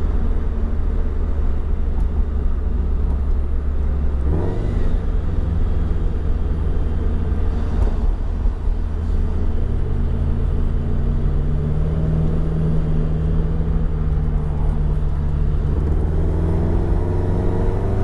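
Flat-four boxer engine and modified exhaust of a sports car, heard from inside the cabin while driving: a steady low drone whose note shifts about four seconds in, climbs gently from around ten seconds, and rises again near the end as the car accelerates.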